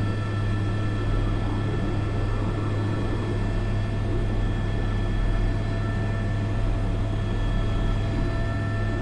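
Airbus AS350 B3 helicopter in flight heard from the cockpit: a steady rotor and turbine drone with a strong low hum and a few thin whining tones above it, unchanging throughout.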